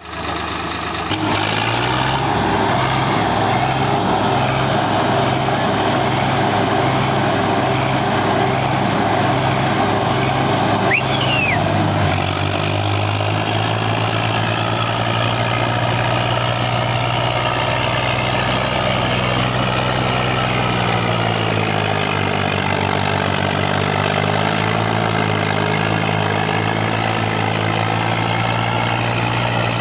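Swaraj 744 diesel tractor engines running hard and steady. Their pitch shifts about 12 seconds in and wavers later on.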